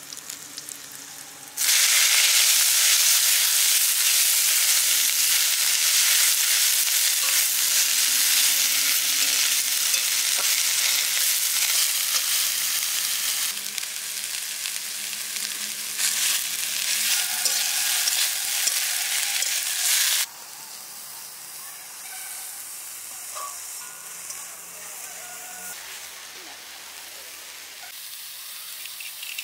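Chopped pumpkin leaves sizzling loudly in hot oil in an aluminium wok, stirred with a metal spatula. The sizzle starts suddenly a moment in and cuts off abruptly about two-thirds of the way through, leaving a much softer steady hiss.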